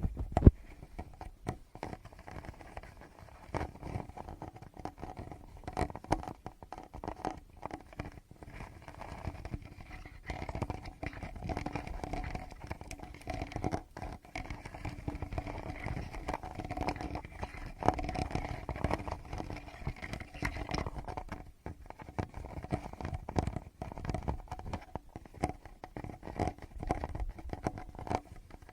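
Fingertips tapping, rubbing and scratching directly on a Tascam recorder's microphone, close up: a dense, irregular run of soft taps and scrapes with low thumps.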